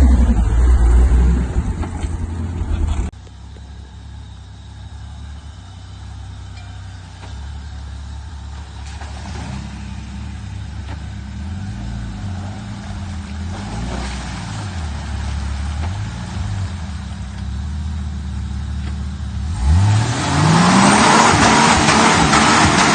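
Turbocharged 4x4 engine being revved: loud at first, dropping away suddenly about three seconds in, then quieter with the revs rising and falling several times, before a loud rev climbing quickly in pitch near the end.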